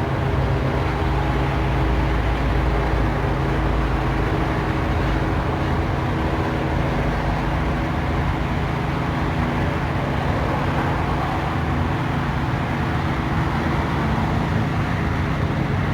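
Police helicopter flying low overhead: a steady engine-and-rotor drone with constant low hum tones.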